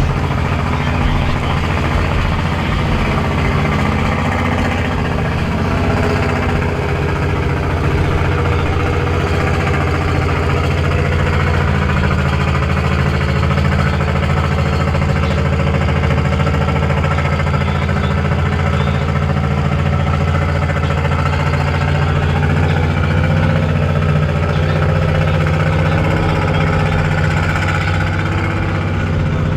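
Off-road vehicle engine running steadily at a near-constant speed, a low, even drone with no revving.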